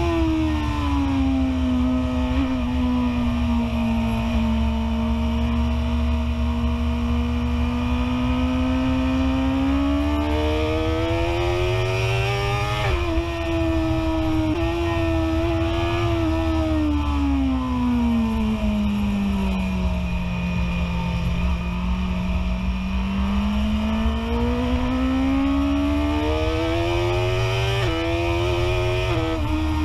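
BMW S1000RR inline-four engine running hard at high revs, its pitch easing down slowly to a low point past the middle and then climbing again as the bike pulls, with a steady low rumble of wind on the microphone underneath.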